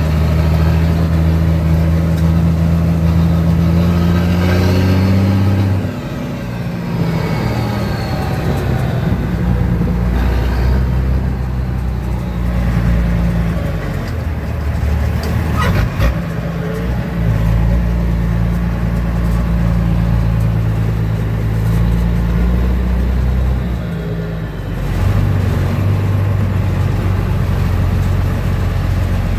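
Diesel engine of an M35A2 military truck running on the road. Its note drops about six seconds in and shifts again a few times as the engine speed changes. There is a single sharp click about halfway through.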